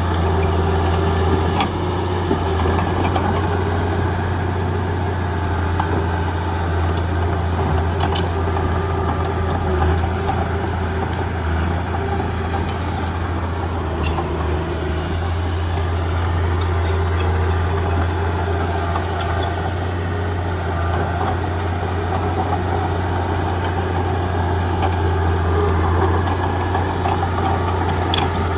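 Heavy diesel engine of earthmoving equipment running steadily, with a deep, even drone and a few faint clicks.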